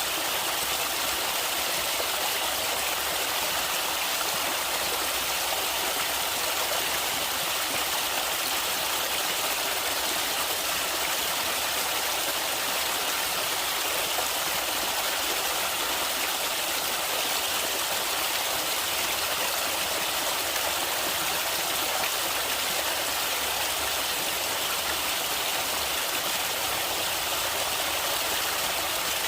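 Stream water running and splashing in a steady, unbroken rush, with its sound weighted toward the higher pitches and little deep rumble.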